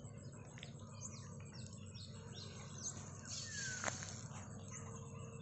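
Birds calling, a run of short, high, falling chirps with one longer falling call about three seconds in. A single sharp click comes just before four seconds.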